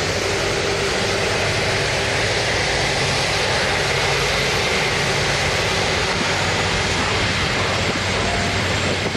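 Jet engine noise from an Airbus A330's Rolls-Royce Trent 772B engines: a loud, steady rush with a faint high whine running through it.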